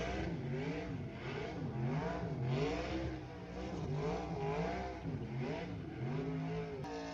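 Car engine in a burnout, revved up and down over and over, its pitch rising and falling about every three quarters of a second over a hiss of noise. Near the end the revving stops and a steady hum takes over.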